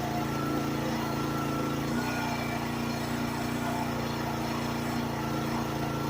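Engine of a Chinese 1-ton mini excavator running steadily while it works, with its note shifting slightly about two seconds in and a faint whine coming and going above it.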